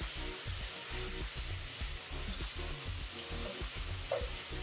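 Chicken browning in olive oil in a hot paella pan: a steady sizzle, with background music underneath.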